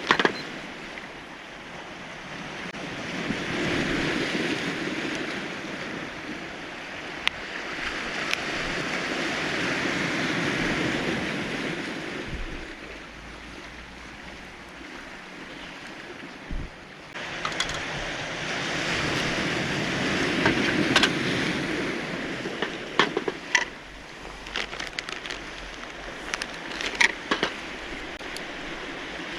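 Sea waves washing onto a cobble beach, swelling and fading in slow surges several seconds apart. In the second half, scattered sharp clicks and clatters.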